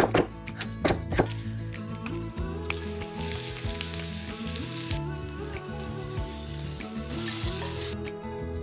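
A few knife chops on a wooden cutting board in the first second. Then spiced chicken sizzles and fries in a cast-iron skillet, in two loud spells: one as sliced onions go in, about three seconds in, and a shorter one near the end as the pan is stirred.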